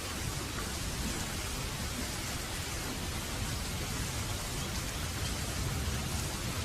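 Heavy rain falling steadily, a dense even hiss of drops on a surface with a low rumble underneath.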